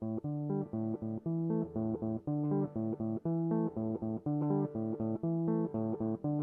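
Instrumental song intro on guitar and bass: a repeating pattern of plucked notes at a steady tempo.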